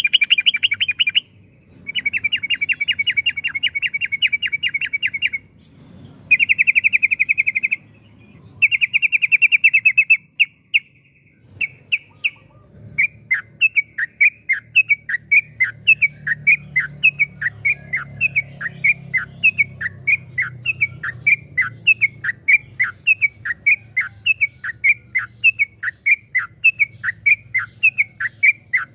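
Yellow-vented bulbul (trucukan) singing. It gives several fast rattling trills a second or two long, then from about halfway a long run of short downward-slurred whistled notes, about two or three a second.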